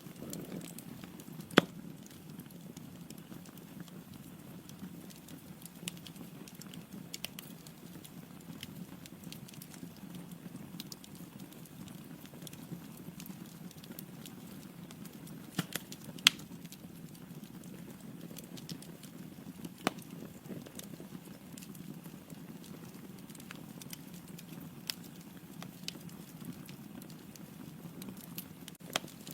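Log fire burning in a fireplace: a steady low rumble of flames with scattered sharp crackles and pops from the burning wood, the loudest pops about a second and a half in and just past halfway.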